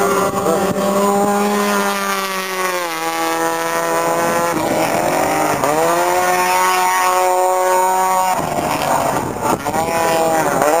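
Drift cars' engines held at high revs through a tandem drift: the pitch drops about three seconds in, climbs again about five seconds in, and shifts again near the end.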